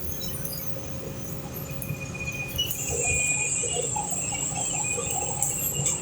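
Insects trilling: a steady, high, even buzz that grows louder about three seconds in, over a low background rumble.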